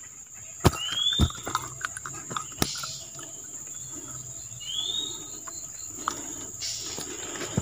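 A bird repeats a short rising whistle twice, about four seconds apart, over a steady high-pitched insect drone. Sharp clicks and light rustling come from a freshly caught fish being handled and unhooked from the line, loudest in the first three seconds.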